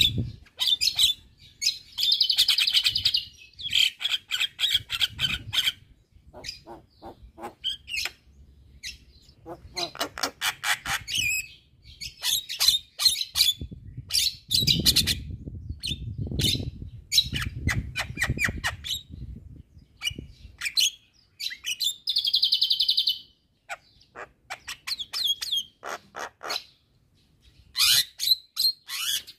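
Javan myna singing vigorously: a fast, varied run of sharp clicks, chattering notes and harsh buzzy phrases, with short pauses between bursts.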